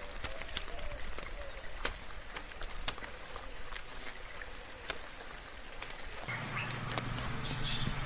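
Steady light rain with scattered sharp drips. Birds chirp intermittently over it. About six seconds in, a low steady drone comes in under the rain, along with more chirping.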